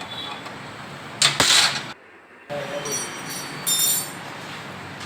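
Workshop handling noises from metal tools and parts: a short scraping, rattling burst about a second in, then light metallic clinks near four seconds.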